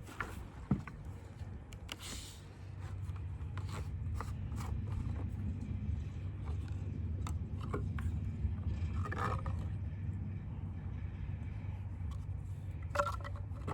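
A low, steady engine rumble comes in about two and a half seconds in, with scrapes and clicks of handling over it.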